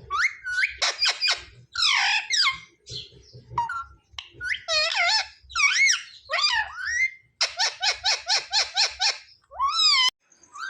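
Indian ringneck parakeet vocalising: a string of shrill squeaky calls that sweep up and down in pitch, with a rapid run of short repeated notes about three-quarters of the way through.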